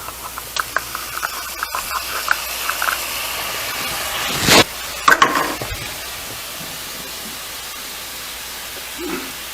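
Butter hissing and sizzling as it melts in a hot skillet, with small crackling pops in the first few seconds. A brief loud sound about halfway through, followed by a few clicks.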